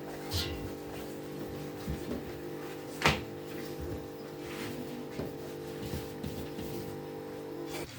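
Scattered light knocks and clatter with one sharp knock about three seconds in, over a steady low hum that stops abruptly near the end.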